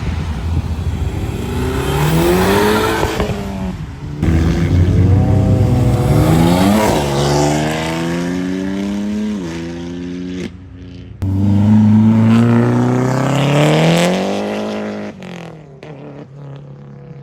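Car engines accelerating hard, the pitch climbing and dropping back at gear changes, in several short clips joined by abrupt cuts.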